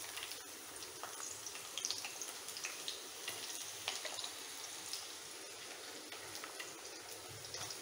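Chopped onions sizzling in hot oil in a black pan: steady frying hiss with scattered crackles and pops.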